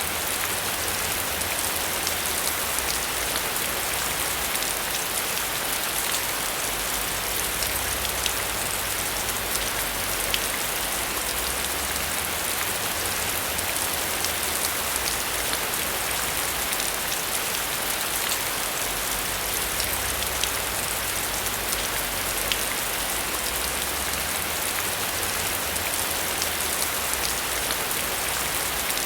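Heavy rain falling steadily, with many individual drops ticking sharply through the hiss, over a low rumble that swells and fades every few seconds.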